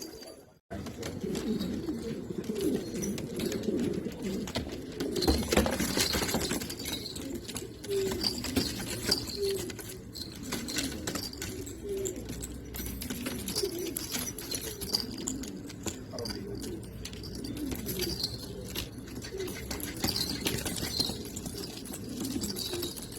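Several domestic pigeons cooing, many overlapping low coos, with a few higher chirps and scattered clicks among them.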